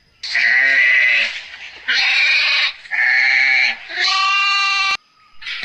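Farm animal bleating: four loud, drawn-out bleats in quick succession, each about a second long.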